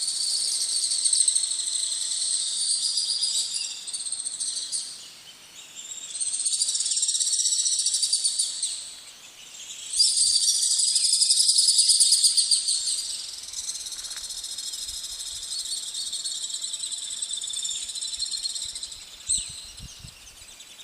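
Insects buzzing in a high, shrill chorus that swells and fades in phrases a few seconds long, then carries on more softly.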